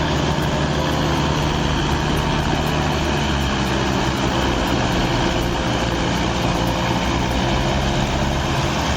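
A tractor or other heavy vehicle's engine running steadily, loud and even throughout.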